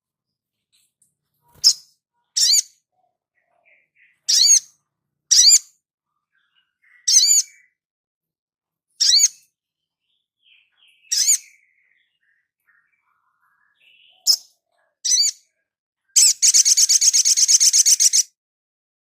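Small songbird, a sunbird or spiderhunter, giving sharp, high single calls one at a time, a second or two apart, then breaking into a fast two-second trill near the end.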